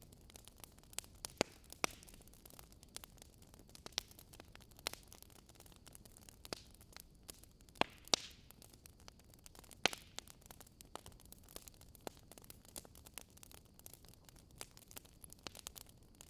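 Firewood burning: a wood fire crackling, with sharp, irregular pops and snaps over a soft steady hiss. A few of the snaps, past the middle, stand out louder.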